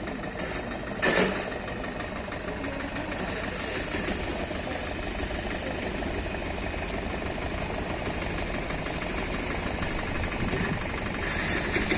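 Railway locomotive engine running steadily, with a brief loud knock about a second in.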